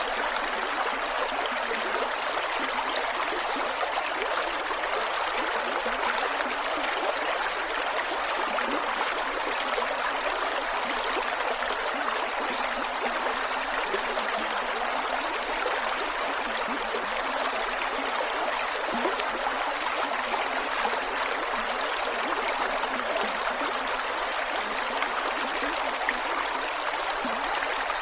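Creek water flowing over rocks, a steady rush with gurgles and trickles.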